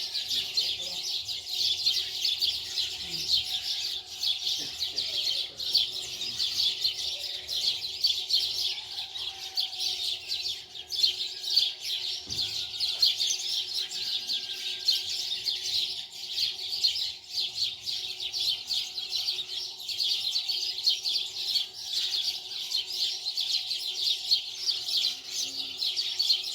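Many small birds chirping rapidly and continuously, a dense chorus of overlapping high chirps, over a faint steady hum.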